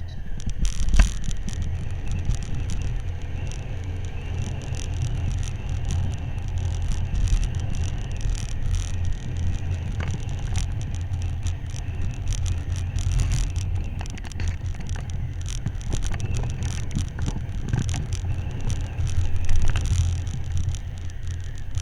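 Motorcycle running on the road, with a steady low rumble and road noise on the rider's microphone.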